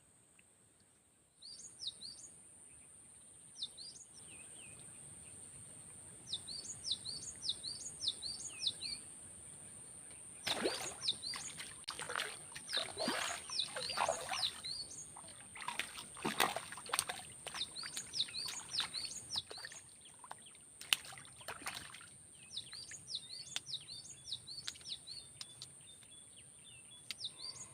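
A bird calling in quick runs of sharp chirps over a steady high whine. From about ten to about twenty-two seconds in, a run of louder irregular rustling and knocking noises overlays it.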